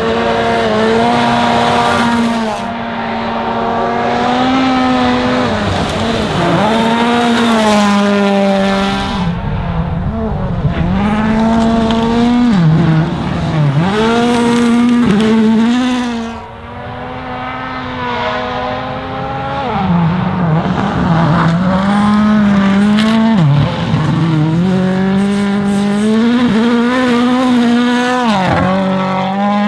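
Toyota Yaris WRC rally car's turbocharged 1.6-litre four-cylinder engine being driven hard at high revs. The engine note is held high and dips in pitch briefly many times as the driver shifts and lifts, then climbs again.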